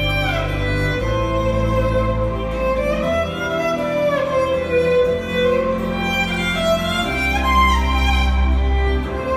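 Violin playing a melody with sliding notes over a sustained low accompaniment whose bass notes change about every three to four seconds.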